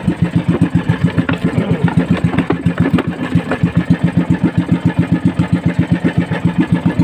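Small fishing boat's engine running steadily, an even pulsing of about seven beats a second.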